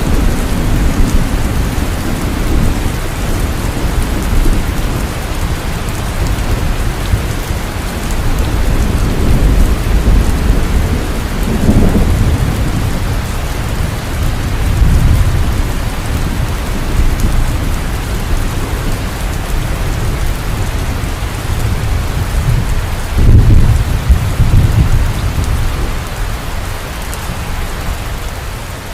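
Heavy rain falling steadily, with thunder rumbling several times under it; the loudest rumble comes about three-quarters of the way through.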